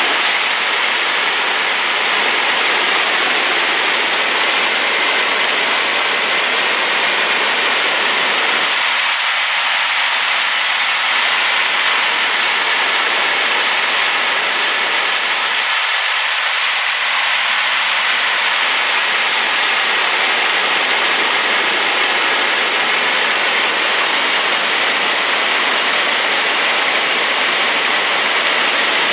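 Waterfall swollen by rain, its falling water making a loud, steady, even rush, with most of its weight in the middle and upper range and little bass.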